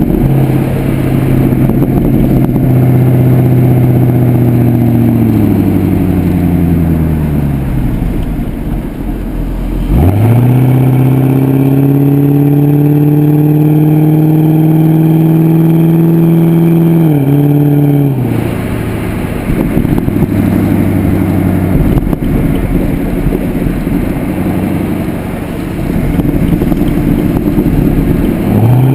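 Pontiac G8 GXP's LS3 V8 through a Corsa exhaust, heard from the tail of the car: the exhaust note falls away for several seconds as the engine slows. About ten seconds in, the pitch jumps sharply and climbs steadily under acceleration for about seven seconds, then drops abruptly. After that it runs on at a rougher, lighter cruise, with the pitch rising again right at the end.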